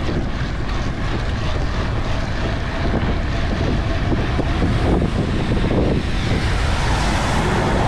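Wind rushing over the microphone of a bicycle rider sprinting at speed: a steady loud rush with a heavy low rumble.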